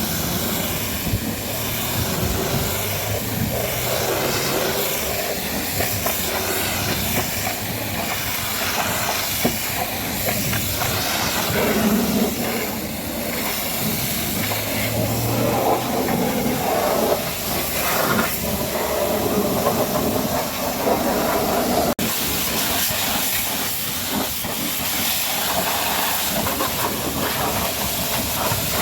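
Pressure washer spraying water on a truck: a steady hiss.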